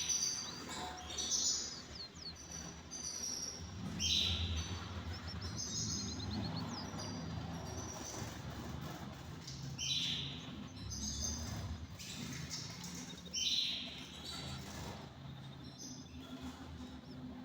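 Aviary canaries calling and chirping, with short, bright calls every few seconds, some broken into quick trills.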